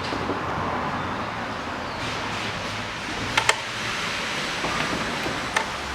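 Car ignition being switched on: a sharp double click about halfway through and another click near the end, over a steady hiss of background noise.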